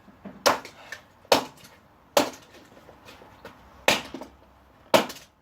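A vacuum cleaner's motor being smashed: five sharp blows about a second apart, with small rattling bits in between.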